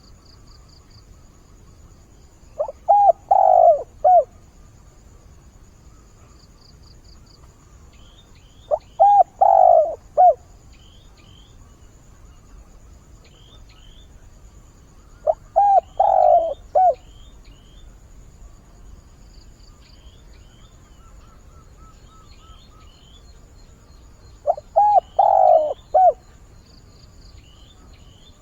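A decoy spotted dove cooing in four phrases about six to nine seconds apart, each a short run of coos. It is calling to lure wild doves. Small birds chirp faintly in between.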